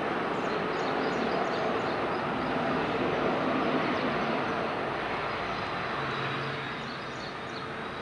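ATR 72-600's twin turboprop engines running as the airliner rolls out after landing: a steady rushing drone that slowly fades near the end.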